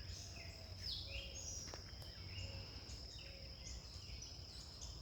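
Faint outdoor ambience: a steady high-pitched insect drone, with short bird chirps and whistles scattered through it over a low rumble.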